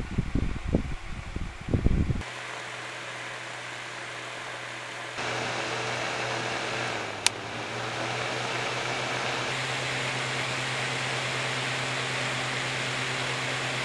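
Sunbeam Blizzard desk fan running: a steady motor hum under a rush of air. Uneven buffeting in the first two seconds gives way to the steady sound, which gets louder about five seconds in, with a single sharp click about seven seconds in.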